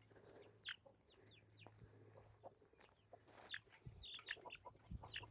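Faint, scattered short chicken clucks and chirps, with a couple of soft thumps in the second half.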